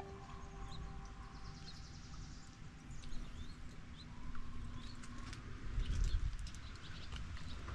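Small birds chirping in short scattered calls, with wind rumbling on the microphone, strongest about three quarters of the way through.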